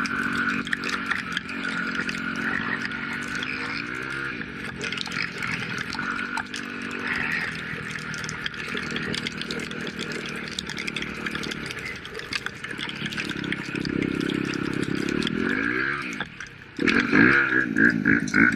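Dirt bike engine running with the throttle worked: the pitch rises and falls a few seconds in and again near the end, then after a brief drop comes a quick series of revs up and down.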